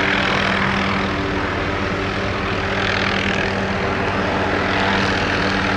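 Helicopter hovering low: a steady drone of its engine and rotor, with a loud, even rushing noise that swells slightly and falls back.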